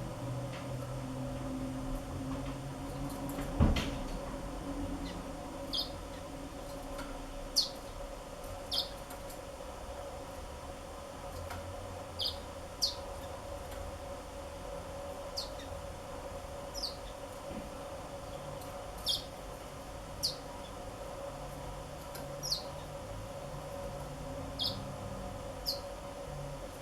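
Black-throated canaries giving short single high chirps, one every second or two at irregular intervals, over a steady hum. There is a sharp knock a few seconds in.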